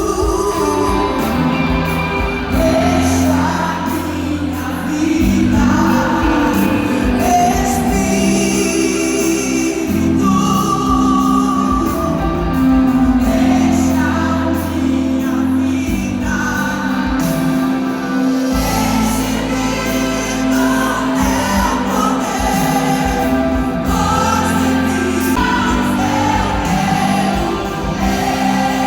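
Live Christian worship music: a band playing with sung vocals throughout.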